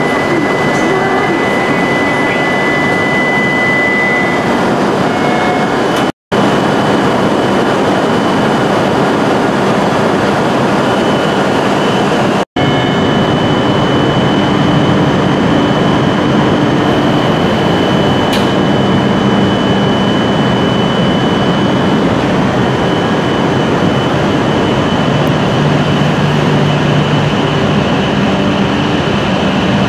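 E7 series Shinkansen train at a station platform, standing and then pulling out: a loud, steady running noise with a high tone for the first few seconds and some steady hum tones later. It is broken twice by brief gaps of silence.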